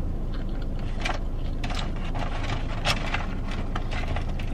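Close-up chewing of fast food, a sauce-dipped fry, with scattered small wet clicks and crunches, the sharpest about three seconds in. A steady low rumble from the car cabin runs underneath.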